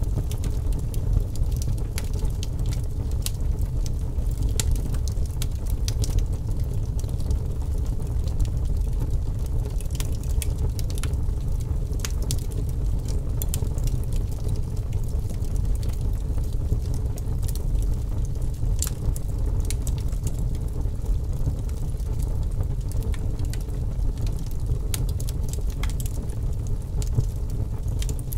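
Wood fire burning in a fireplace: a steady low rumble with many sharp crackles and pops scattered irregularly throughout.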